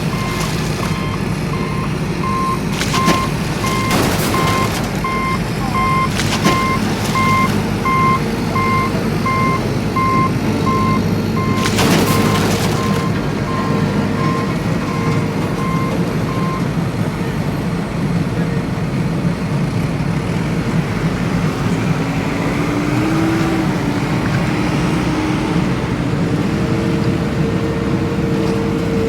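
A vehicle's motor running steadily under a reversing alarm that beeps at an even rate, then stops a little past halfway. There are a few knocks along the way, and a short rising tone near the end.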